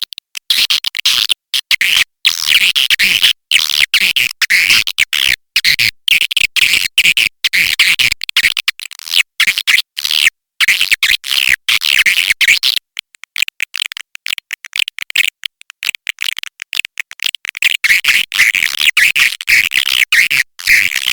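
Swiftlet call recording used as a lure for swiftlet houses: dense, rapid chattering and buzzy twittering of swiftlets, broken by fast clicks and short gaps. About two-thirds of the way in it thins for a few seconds to mostly clicks before the twittering comes back.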